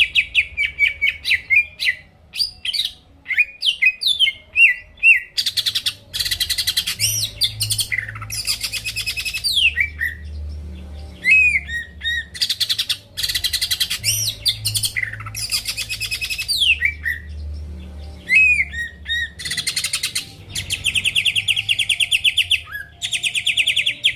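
Green leafbird (cucak ijo) singing loudly and continuously: clear whistled notes sliding downward alternate with fast, rattling trills, with a long even trill near the end.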